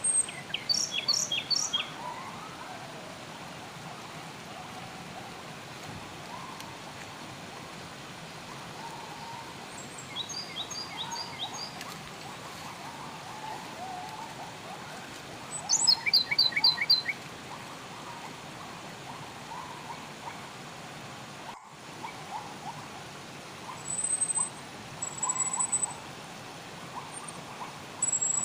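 Songbirds singing short phrases of quick repeated notes every several seconds, with thin high whistles near the end, over the steady rush of flowing water.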